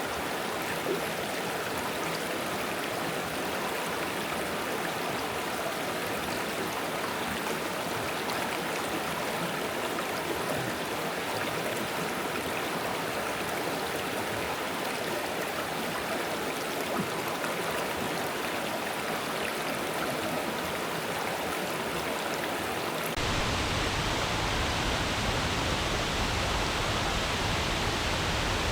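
Forest stream flowing over stones, a steady rushing babble. Near the end it cuts abruptly to a slightly louder, deeper rush with less hiss.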